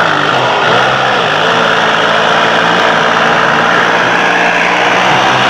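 A tractor's diesel engine running loud and steady.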